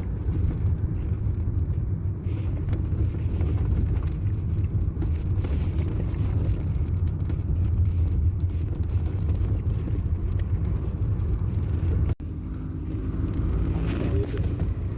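Car on the move: a steady low rumble of engine and road noise, broken by a brief dropout about twelve seconds in, after which the rumble carries on.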